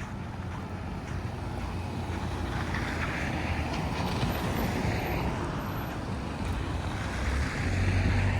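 A road vehicle passing on a snow-covered city street, with tyre noise and a low engine rumble that grow louder, loudest near the end.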